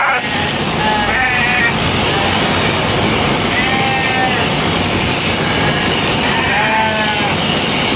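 Sheep bleating about three times over the steady buzz of shearing clippers.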